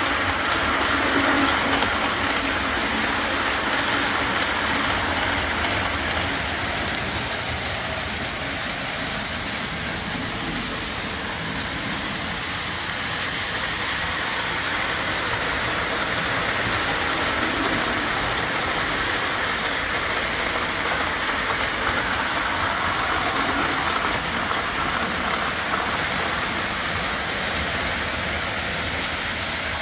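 CSX manifest freight train rolling past, a steady noise of railcar wheels on the rails.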